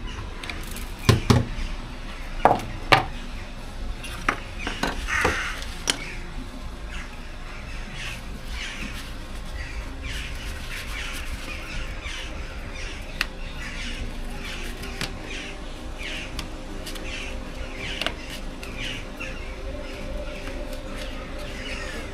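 Birds calling over and over in short, harsh calls, with a few loud knocks in the first few seconds.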